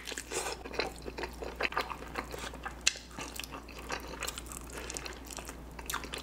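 Close-up mouth sounds of a person eating a sauced chicken wing: wet chewing, lip smacks and irregular sharp clicks as meat is pulled off the bone.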